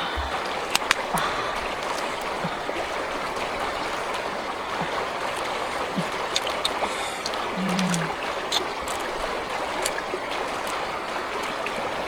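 Running water of a stream, a steady rushing and trickling, with a few small clicks and knocks on top.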